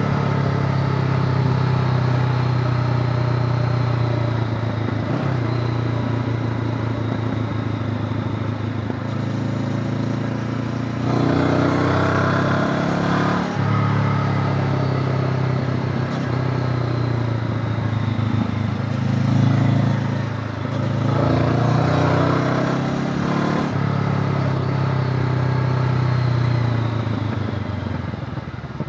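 Honda CB500X's parallel-twin engine running steadily on a ride, with two louder, rougher stretches about eleven and nineteen seconds in, and the sound easing off near the end.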